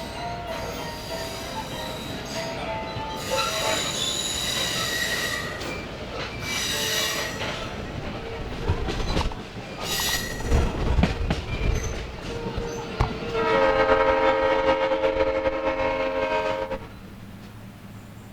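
Excursion train on the move: its wheels squeal in several bursts and the cars rumble and knock. Near the end the locomotive horn sounds one long blast of about three seconds, then cuts off.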